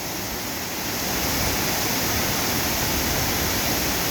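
Waterfall: the steady rush of falling water, a little louder from about a second in.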